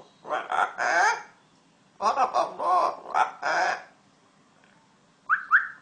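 Talking parrot mimicking human speech in two bursts of word-like chatter, then two short rising whistles near the end.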